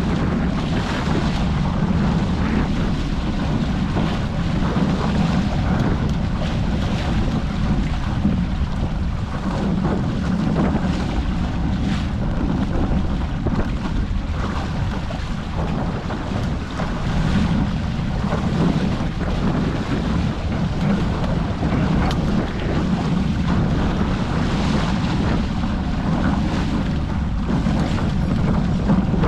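Wind buffeting the microphone over water rushing and washing past the hulls of a Hobie 14 catamaran under sail, swelling and easing with the gusts and chop.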